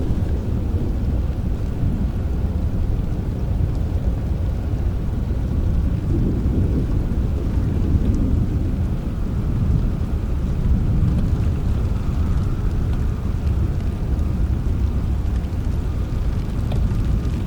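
Steady rain with a continuous low rumble of distant thunder that swells a little now and then.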